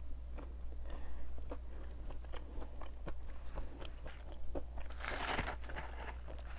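Close-up biting and chewing of a crispy breaded plant-based fried chicken nugget: a run of short, sharp crunches as the coating breaks, with a louder, denser stretch of crunching about five seconds in.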